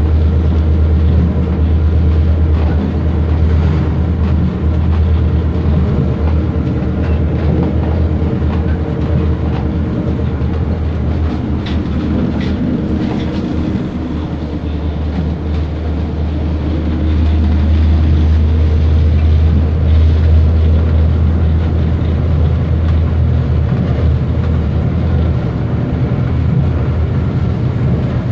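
Irish Rail diesel train running at speed, heard from inside the carriage: a steady low rumble of wheels on rail, with a few faint clicks about twelve seconds in.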